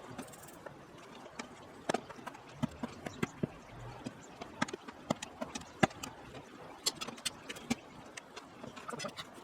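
Irregular sharp clicks and knocks, one to three a second, with one louder knock a little after the middle.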